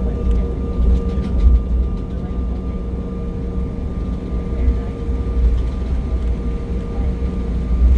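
Steady cabin noise inside an Embraer E175 regional jet on the ground: a deep low rumble with several constant humming tones over it.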